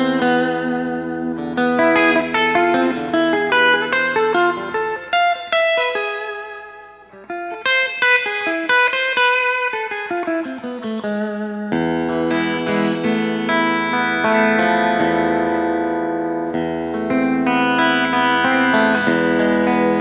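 Clean electric guitar played through a 15-watt Fender Blues Junior tube amp with the amp's built-in spring reverb on. A run of picked single notes rings out, then held chords sustain from a little past halfway.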